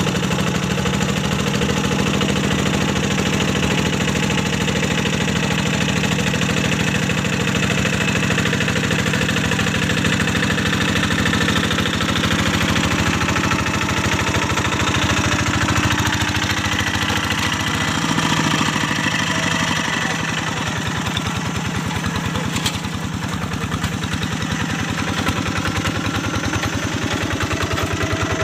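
Single-cylinder diesel engine of a Quick G1000 Boxer hand tractor running steadily under ploughing work in a paddy field. About two-thirds of the way through, its note drops and eases a little, then picks up again near the end.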